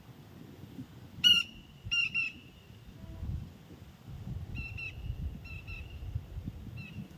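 A bird calling in short, sharp, high notes in quick pairs: a loud pair about a second in, another at two seconds, more pairs around five and six seconds, and a weaker note near the end. A low rumble runs underneath.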